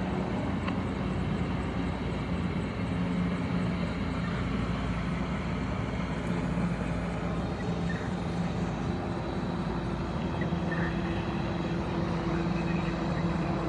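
Steady engine drone with a constant low hum, and a second, higher hum that grows stronger about eight seconds in.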